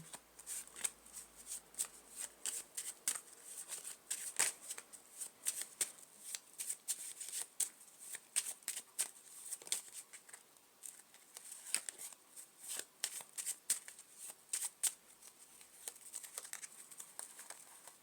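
A deck of playing cards being shuffled by hand: a long run of quick, irregular papery flicks and soft slaps.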